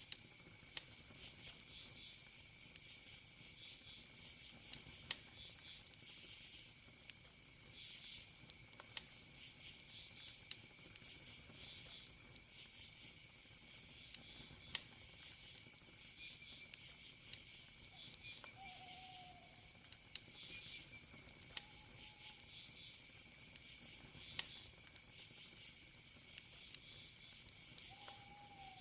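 Campfire wood crackling in scattered sharp pops and snaps over a steady chorus of crickets chirping in pulses.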